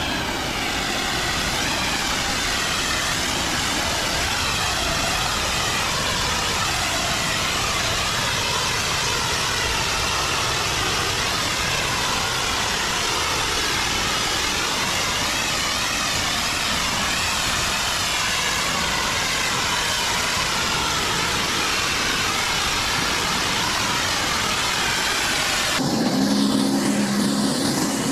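Pressure washer running: a steady engine note under the even hiss of the high-pressure water jet. Near the end the sound changes abruptly to a steadier hum with a few held low tones.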